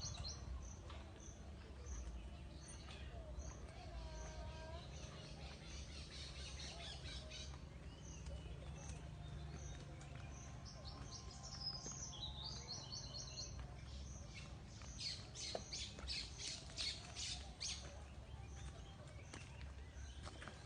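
Birds chirping and calling, faint: a short high chirp repeats at a steady pace, then louder squawking calls come in a dense cluster about three quarters of the way through.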